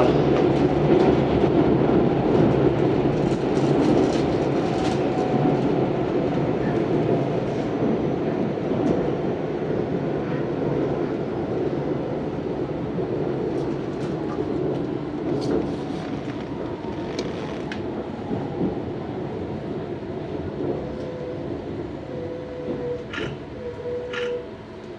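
Tobu 634-series railcar running, heard from inside the car: a steady rumble of wheels on rail that grows gradually quieter, with a few sharp rail clicks near the end. The train is slowing as it comes into Kawaji-Yumoto station.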